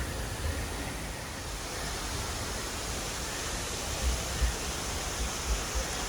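Steady rushing noise outdoors, with low rumbles of wind buffeting the microphone that pick up about four seconds in.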